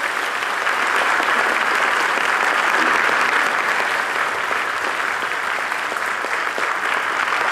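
Concert audience applauding steadily, a dense sustained clapping.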